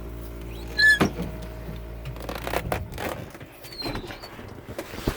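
Someone climbing into a truck cab: a loud short squeak about a second in, then scattered knocks and clattering. A steady low hum underneath stops a little under three seconds in.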